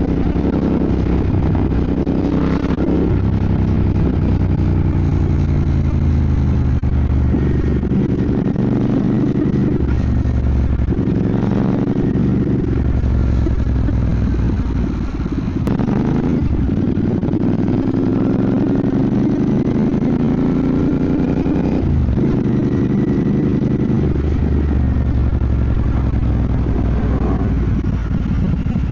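Royal Enfield Bear 650's parallel-twin engine under way, pulling through the gears: its note climbs, then drops back sharply at each of several gear changes.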